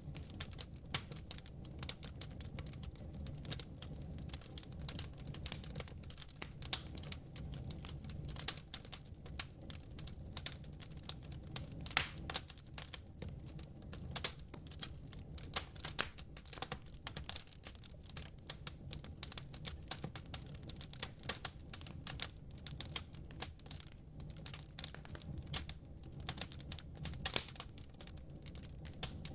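Wood fire crackling and popping, with irregular sharp snaps throughout over a steady low rumble; one snap about twelve seconds in is the loudest.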